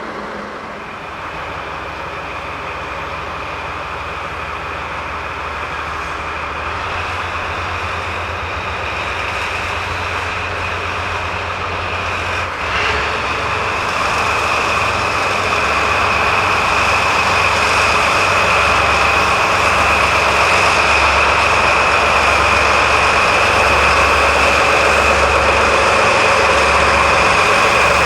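A cement freight train of Taki 1900 tank wagons hauled by a pair of Sangi Railway ED45 electric locomotives, rolling and growing steadily louder, with a rhythmic low rumble from the wheels and a single short clank about halfway through.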